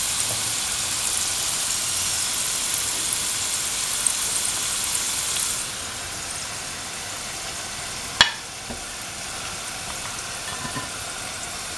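Mung bean dumplings deep-frying in hot oil: a steady sizzle that becomes quieter about halfway through. A single sharp click sounds about two-thirds in.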